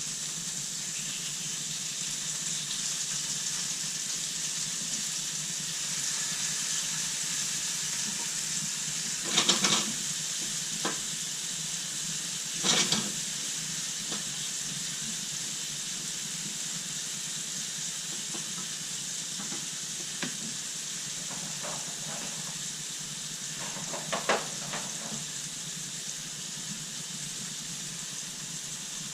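Chicken frying in a pan with a steady sizzle. A few brief, louder clatters of a utensil or the pan cut in about a third of the way through, again shortly after, and once more past the middle.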